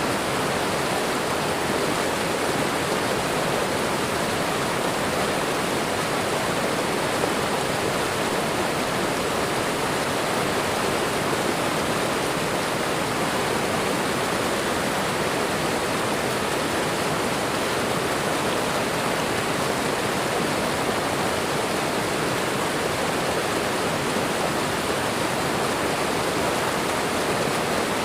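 Waterfall and running water, a steady, even rush with no change.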